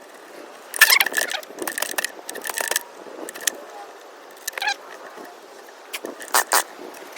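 Recoil starter cord on an Echo ES-250 leaf blower being pulled, three quick raspy pulls in a row, with the engine not firing.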